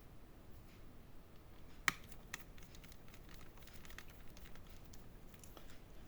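Faint clicks and rustling of hands handling a laptop, with one sharper click about two seconds in.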